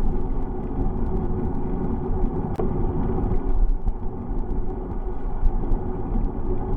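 Steady low rumble of wind buffeting the microphone and tyre noise on a moving bicycle, with scattered light ticks and rattles and one sharper click about two and a half seconds in.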